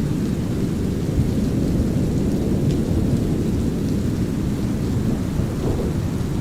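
Steady deep brown noise with light rain, faint raindrop ticks scattered through it.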